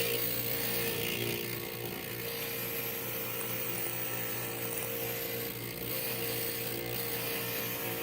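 Inland stained glass grinder running as a glass piece is ground against its wet bit: a steady motor hum under a continuous gritty grinding hiss.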